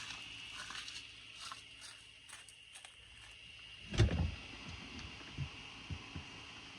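Hand tools working on a truck seat's base bolts and seat track: scattered faint metal clicks, a single heavier thud about four seconds in, then a few light knocks.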